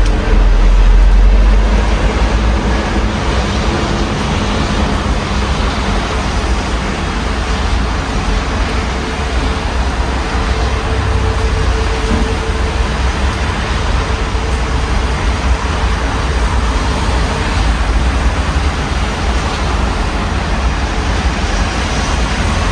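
Steady rain with city traffic passing outside an open window, a vehicle's low rumble loudest in the first couple of seconds, then a constant wash of rain and road noise with faint engine hum.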